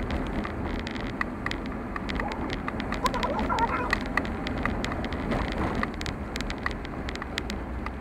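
A vehicle driving, heard as a steady low rumble with many small irregular clicks and ticks over it, typical of a car travelling on a rough road.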